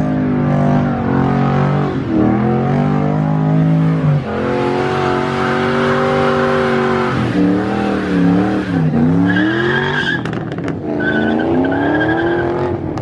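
Car engine revving hard, its pitch rising and falling and held high for a few seconds in the middle. In the last few seconds a high tyre squeal comes and goes over it.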